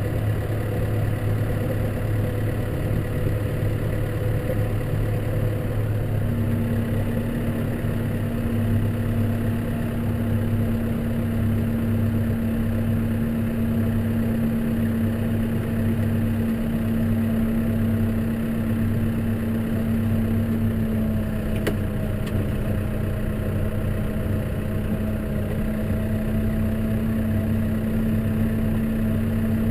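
Case tractor's engine running steadily, heard from inside the cab, with a steady hum joining about six seconds in and a faint click about two-thirds through.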